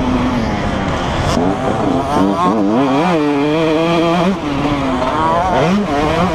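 Motocross bikes running on the track, their engines revving up and down over and over as they ride, with more than one bike heard at once.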